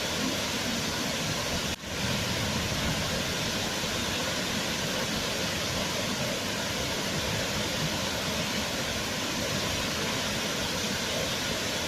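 Waterfall: a steady rush of falling water, with a brief drop-out about two seconds in.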